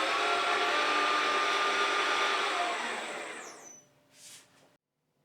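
Milling machine spindle running at about 1600 rpm with its whine holding steady, then winding down in pitch and stopping about three and a half seconds in. A brief soft rustle follows just after.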